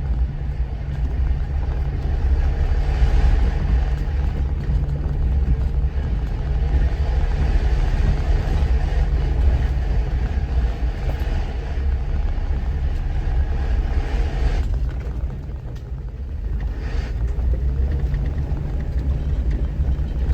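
Jeep driving slowly over a rocky dirt trail: a steady low rumble of engine and tyres on stone, which eases for a moment about fifteen seconds in.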